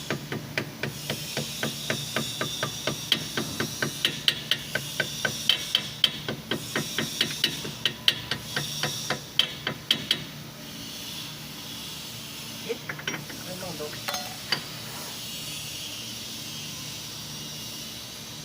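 Rapid, even metallic tapping, about four or five strikes a second, that stops about ten seconds in, followed by a few scattered taps; a steady hiss runs underneath. This is typical of hammering on metal parts during a differential rebuild.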